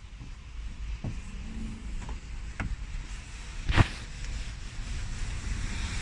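Handling noise while working in an engine bay: a low rumble with a few short knocks and clicks, the loudest about four seconds in.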